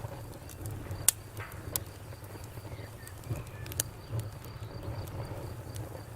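Wood campfire crackling: a low steady rumble of flames with sharp, irregular pops, the loudest about a second in. A high, evenly pulsing insect chirp goes on steadily behind it.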